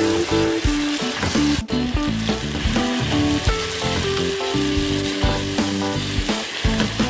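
Chicken pieces sizzling as they fry in hot oil in a pot, stirred with a silicone spatula, under background music with a plain stepping melody.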